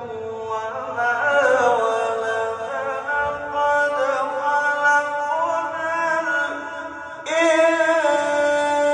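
A man reciting the Quran in a melodic, chanted style, drawing out long held notes that glide and bend in pitch; a new, louder phrase begins about seven seconds in.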